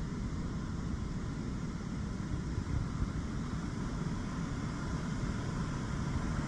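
Steady low rushing of a flood-swollen mountain stream overflowing its course after typhoon rain.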